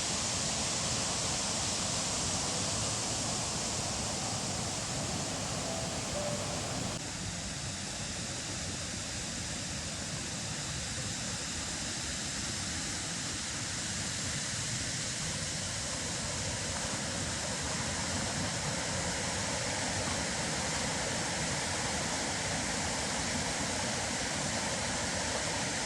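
Steady rushing water of a waterfall, an even noise with no break, whose tone shifts suddenly about seven seconds in.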